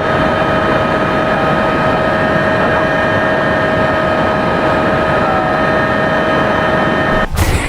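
Jet engine running at steady power: a loud rushing noise with a high whine held at one pitch, cut off suddenly near the end.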